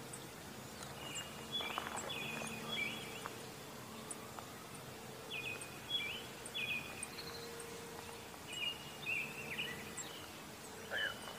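Outdoor ambience with a songbird chirping in short bursts of three or four quick notes, repeated every few seconds, over faint high-pitched ticks and a faint steady hum.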